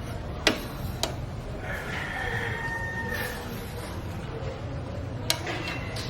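Three sharp clicks or knocks of tools and metal parts while a conical exhaust is being mounted on a motorcycle: two close together early, one near the end.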